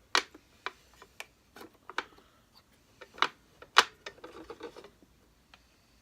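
Sharp clicks and knocks of the bottom plate of a Hoover Senior Ranger upright vacuum being handled and fitted back on over the belt, about half a dozen irregular knocks with the loudest a little under four seconds in, followed by a brief scraping rattle.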